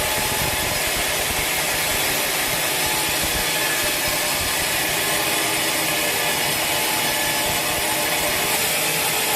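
Sawmill saw cutting steadily through a large teak log, a constant, even noise that does not change.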